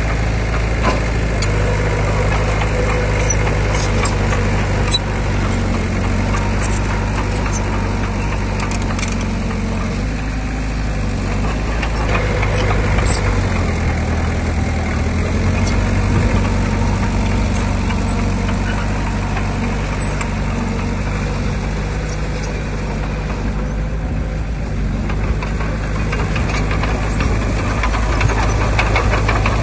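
Heavy diesel engine of earthmoving machinery running steadily, its note dipping a little and rising again near the middle, with faint scattered clicks and clanks.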